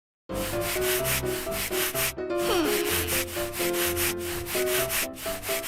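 Cartoon soundtrack: a rhythmic scraping, like sanding or a shaker, about five strokes a second, over a simple melody. A falling whistle-like glide comes about two and a half seconds in.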